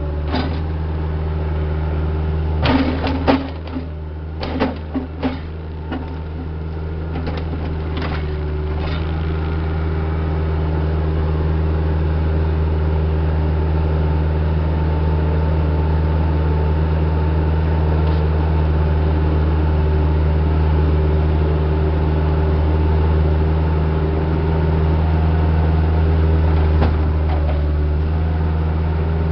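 Diesel engine of heavy equipment running steadily, getting louder about ten seconds in. Several sharp knocks come in the first few seconds.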